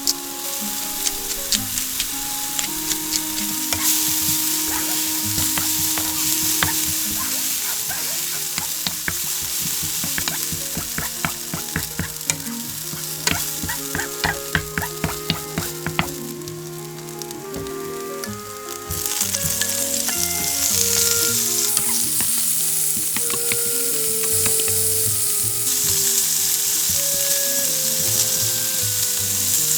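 Shrimp fried rice sizzling as it is stir-fried in a pan, a spatula clicking and scraping against the pan in quick runs of strokes. The sizzle drops for a few seconds a little past halfway and comes back louder. Soft background music plays underneath.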